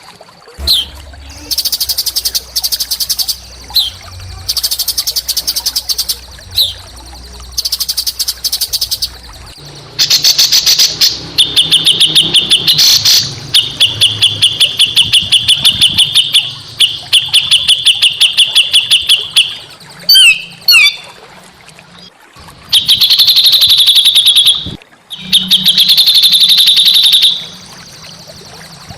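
A small songbird singing a harsh, fast song in bouts of one to three seconds. Each bout is a rapid string of evenly repeated high notes, with short pauses between bouts and a quick pair of falling whistles about two-thirds of the way through. It is a masteran recording of a rough, dense song used to tutor caged songbirds.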